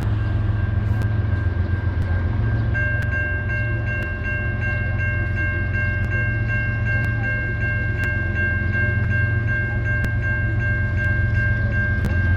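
Train passing with a steady low rumble. From about three seconds in to near the end, a bell strikes rapidly, about four times a second.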